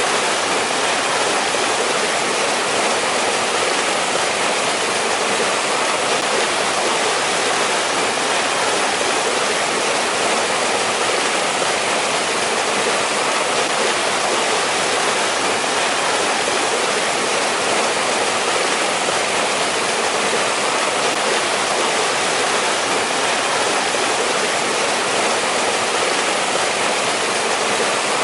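A mountain stream rushing over rocks, a steady, unbroken water noise with no distinct splashes or changes.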